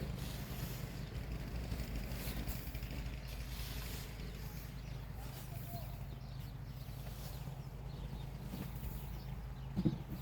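Snow being brushed and scraped off a car in irregular strokes, over a steady low hum.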